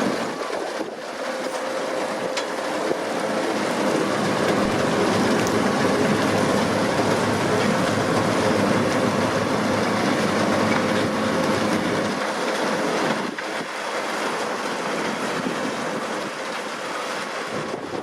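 Deutz-Fahr 6150.4 tractor's four-cylinder diesel running under load while a potato harvester works, a loud, steady mechanical clatter and hum.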